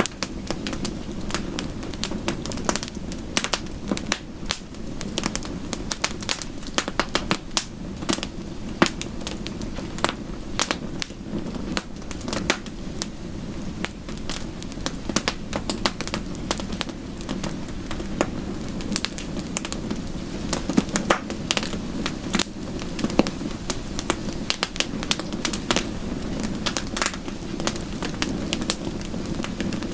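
Wood fire in a fireplace crackling, with many irregular sharp pops over a steady low rumble, mixed with soft rain.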